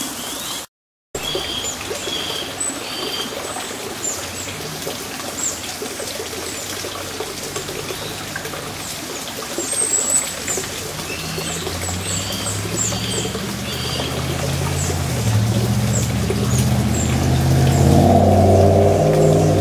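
Many short, high, downward-sweeping bird chirps repeating. The sound drops out completely for a moment about a second in. From about halfway a low engine rumble builds, loudest near the end.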